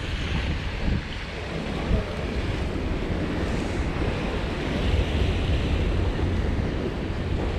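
Wind buffeting the microphone as a ragged low rumble that swells in gusts, over a steady hiss of wind and sea.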